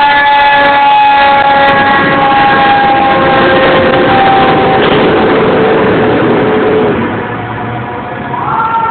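Fire engine siren winding down in a long, slow falling wail, then starting to rise again near the end, over the noise of the truck and street.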